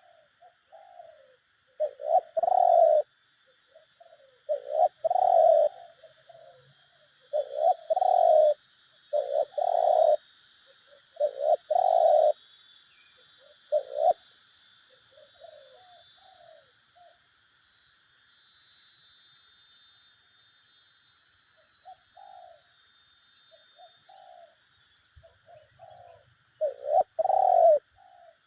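Spotted doves (tekukur) cooing in repeated phrases, a caged decoy dove and a wild one calling against each other. The coos come thick and loud through the first half, thin to a few faint ones after a lull, and turn loud again near the end, over a steady high-pitched chirring.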